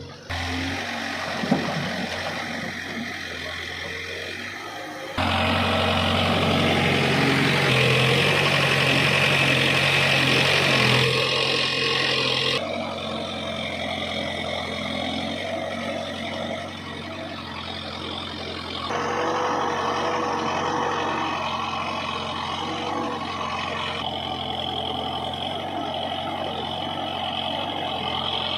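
Heavy diesel engines of earthmoving machines and tractors running steadily. The sound jumps abruptly in level and tone several times, loudest from about five to twelve seconds in, with a sharp click about a second and a half in.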